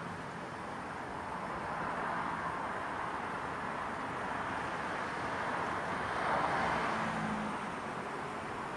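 Steady hum of road traffic in a residential area, swelling as a vehicle passes closer about six and a half seconds in.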